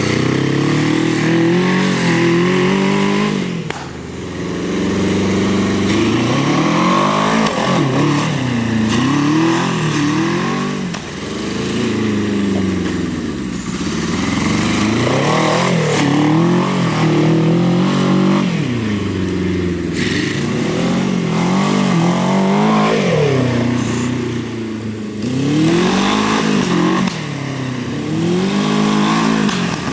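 Suzuki GS750 motorcycle engine, an air-cooled inline four, running in a go-kart and revving up and down over and over, its pitch climbing and falling every few seconds as the throttle is opened and backed off.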